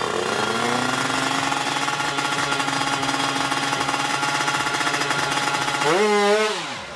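Tuned 155cc Kawasaki Ninja two-stroke drag-bike engine running at a steady speed, then revved up and let fall once near the end.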